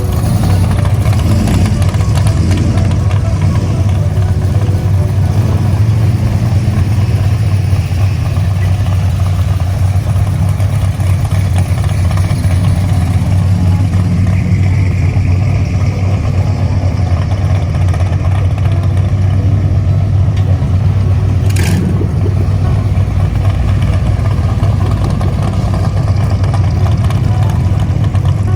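Vehicle engine running steadily at a low, even pitch without revving, with one sharp click about two-thirds of the way through.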